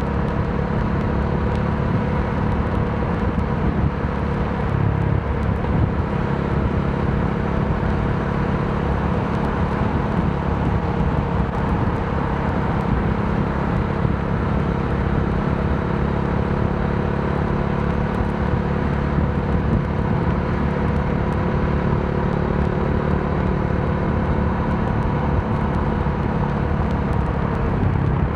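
Modenas Dominar D400's single-cylinder engine running at a steady cruise, with wind and road noise over it.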